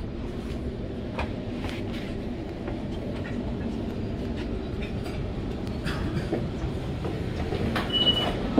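Sydney Trains double-deck electric passenger train heard from inside the carriage as it runs in to its stop at the platform: a steady low rumble from the running gear, with scattered clicks and rattles. A short high beep sounds near the end.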